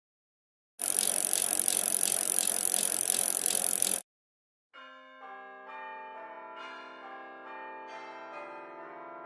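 A loud, hissy, rattling noise lasting about three seconds that cuts off abruptly. After a brief silence, bell-like music of overlapping, sustained chime notes begins.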